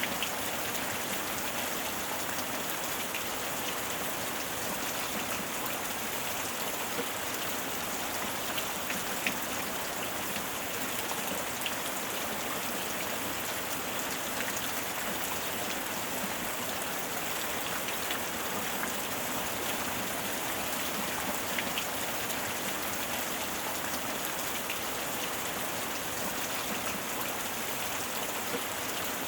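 Steady heavy rain falling on a surface, an even hiss with scattered individual drops ticking through it.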